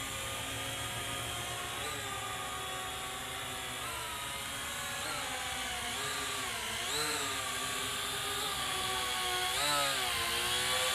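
Syma X8HG quadcopter's motors and propellers whining in flight, the pitch rising and falling as the throttle changes, with swells about four, seven and ten seconds in.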